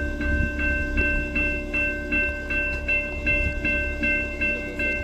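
Railroad grade-crossing bell dinging steadily, about two and a half strikes a second, over a steady hum and low rumble as a train approaches.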